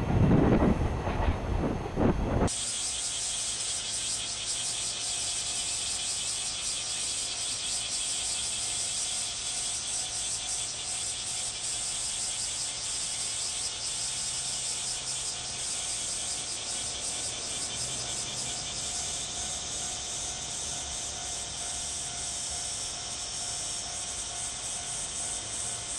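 A freight train rumbling past for the first two seconds or so, then a sudden cut to a steady high-pitched hiss with a fine, fast shimmer.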